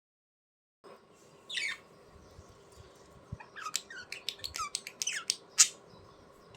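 Budgerigars chirping and squawking: a scratchy squawk about a second and a half in, then a quick run of short chirps and warbles, the loudest call near the end, over a faint steady hum.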